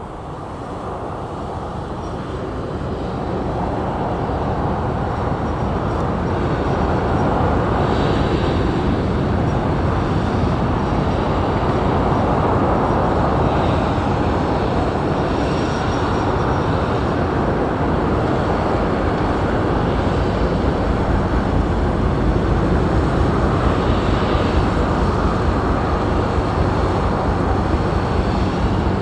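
Steady low rumble of the Ro-Ro passenger ferry Akebono Maru's engines as it pulls away from the berth. It swells over the first several seconds, then holds level.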